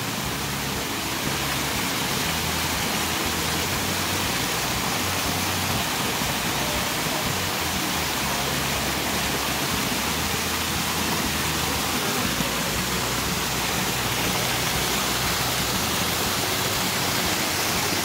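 Steady rushing of a waterfall close by, water spilling down a rock face and running over the rocky stream bed below it.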